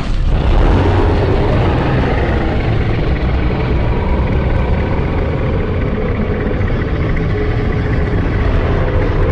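Custom-made monster-roar sound effect for Galactus: a loud, deep, rumbling roar that starts abruptly and holds steady for about nine seconds.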